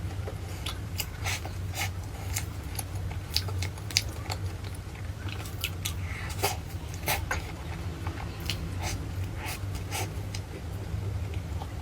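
Eating sounds: irregular crunchy chewing and biting clicks, several a second, over a steady low hum.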